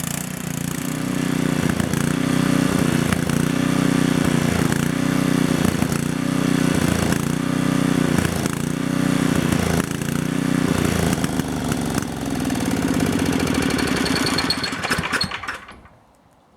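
Small portable generator engine running with a regular surge about once every second and a bit. It then slows, falling in pitch, and dies near the end, typical of the engine running its carburetor dry with the fuel cutoff valve closed.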